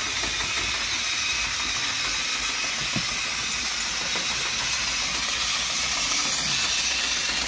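Battery-powered toy train (1992 Toy State Christmas Magic) running on its track: a steady whirring hiss from the small motor and gears.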